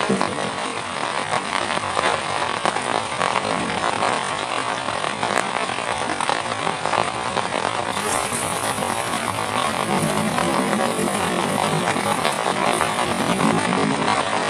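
Heavy rain falling: a steady, dense hiss of countless drop hits that does not let up.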